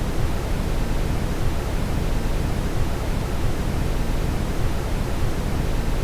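Steady brown noise: an even, unchanging hiss weighted heavily toward the low end, a deep rushing sound with no pitch or rhythm.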